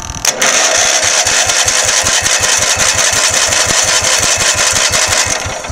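Electric starter cranking the small engine of a 1970s Generac generator, its crankcase drained of oil: a steady whirring with even compression pulses about six times a second, starting suddenly and dying away near the end without the engine catching.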